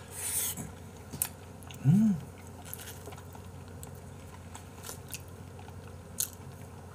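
Close mouth sounds of a man chewing raw beef sashimi: soft wet chewing with a few small clicks, and a short "mm" hum about two seconds in.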